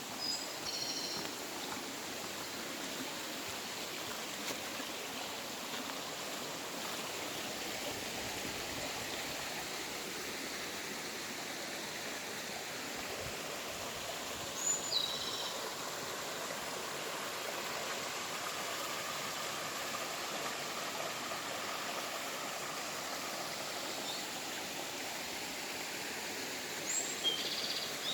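A stream's water rushing steadily, with short, high bird calls three times: just after the start, about halfway through, and near the end.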